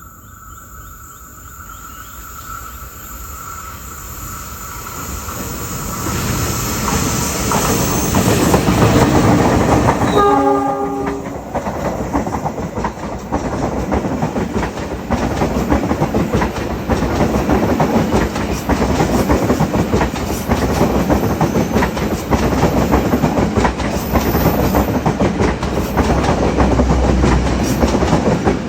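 Papandayan train approaching and passing, growing louder over the first eight seconds. About ten seconds in its horn sounds once, briefly. The coaches then roll past with a steady clatter of wheels over the rail joints.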